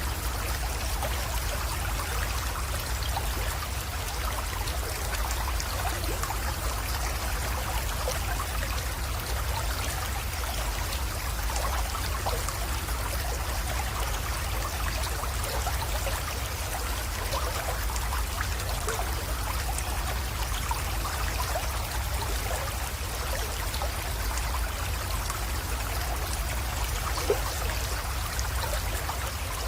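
Small creek flowing and trickling steadily, many tiny splashes over a constant low rumble, with one brief small splash near the end.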